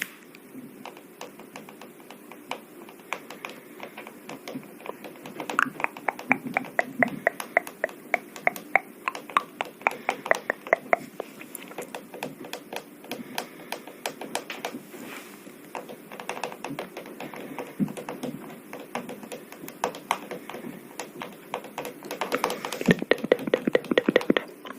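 Many light taps or clicks in an irregular run, several a second, growing denser and louder near the end.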